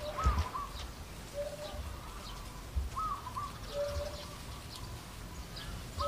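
A bird repeats a short whistled phrase about three times, each time a low steady note and then higher arched notes. A few soft low thumps sound under it.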